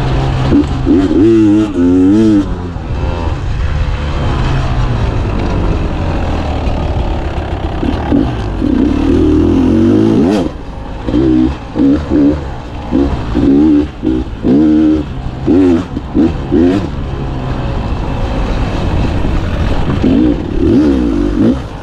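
Beta 300 two-stroke dirt bike engine revving under the rider, its pitch rising and falling with the throttle. In the middle of the stretch it comes in a series of short, choppy throttle bursts.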